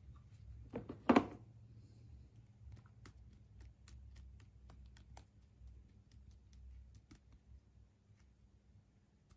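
Small objects being handled: a loud knock about a second in, then scattered light clicks and taps.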